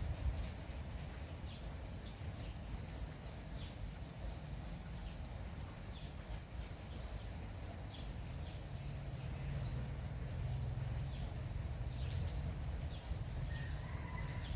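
Steady drizzling rain, with small birds chirping in short high notes every second or so. Near the end there is a brief call on two steady pitches.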